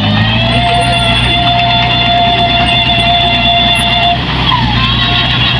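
Heavy machine's engine running steadily, with a high steady whine over it that stops about four seconds in.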